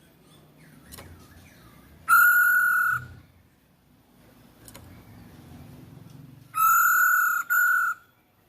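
Two long, loud whistled notes held on one steady pitch, the second broken by a short gap, over faint bird chirps: a provoking call played to make a quiet poksay hongkong (hwamei) answer.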